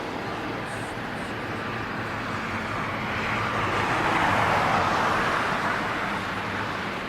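Road traffic noise, with a vehicle passing close by: a rushing noise that swells to its loudest about four to five seconds in, then fades.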